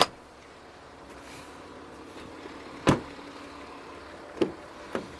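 Four sharp thuds over a steady low background hiss. The first, at the very start, and the second, about three seconds in, are the loudest; two lighter ones follow near the end.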